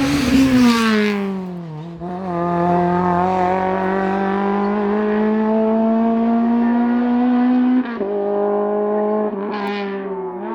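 Racing car's engine at full throttle: its pitch drops over the first two seconds, then climbs steadily for about six seconds. A sharp upshift comes about eight seconds in, and another just at the end.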